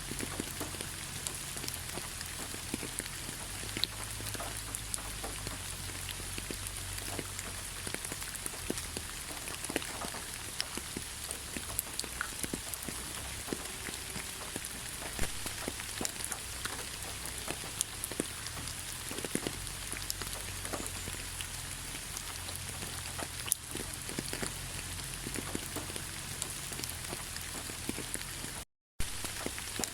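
Steady rain with a patter of many individual drops, some sharper than others. The sound cuts out completely for a split second near the end.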